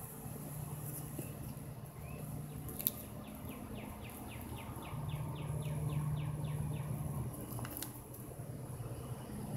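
A bird calling a rapid run of short falling chirps, about four a second, for a few seconds in the middle, over a steady low hum. Two brief clicks, one before the chirps and one after.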